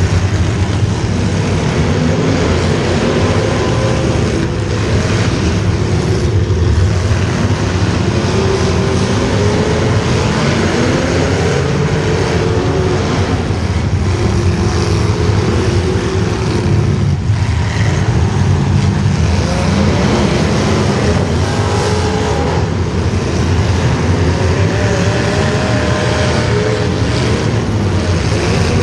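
Loud, steady engine noise from several engines at once, their pitches wandering up and down as they rev.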